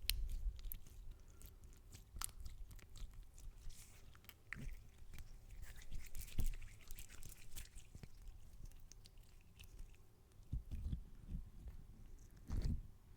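Close-miked ASMR trigger sounds: a run of small, sharp, irregular crackles and clicks with a few soft low thumps, the loudest thump a little before the end.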